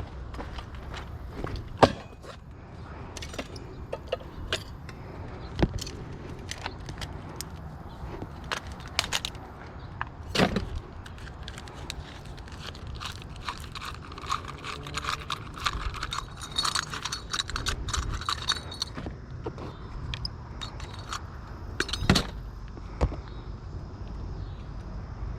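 Small metal scrap pieces being handled: scattered clinks and knocks, a few sharper strikes, and a stretch of jingling rattle about midway through.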